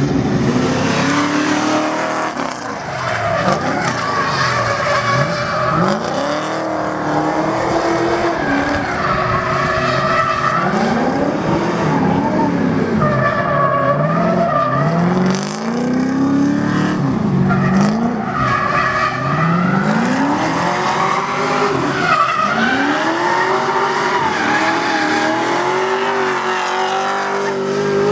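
Drift car engine revving up and dropping back over and over as it is driven hard, with tyres squealing and skidding through the slides.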